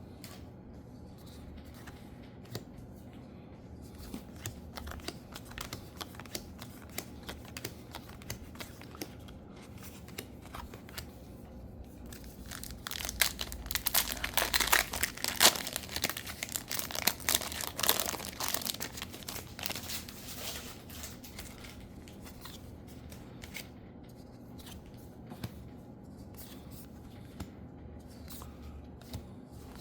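Spider-Man trading card booster packs being handled and torn open, the wrappers crinkling. The tearing and crinkling is loudest in the middle, with quieter rustling and small clicks either side.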